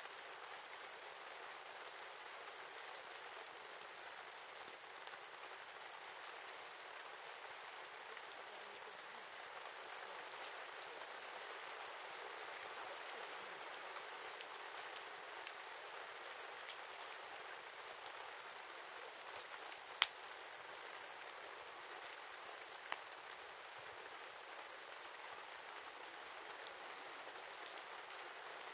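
Wood campfire burning with a steady hiss and frequent small crackles and snaps, with one louder pop about two-thirds of the way through.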